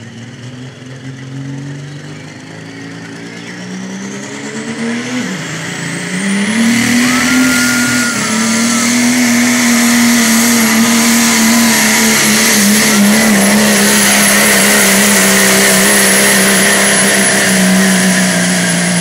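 Dodge Cummins diesel pulling truck's engine revving up under load, a turbo whistle climbing in pitch, then running flat out, loud and steady, from about six seconds in.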